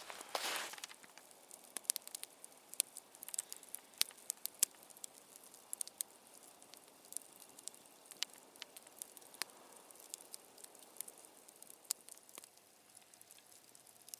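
Campfire burning: irregular sharp crackles and pops over a faint hiss, with a brief rustling noise right at the start.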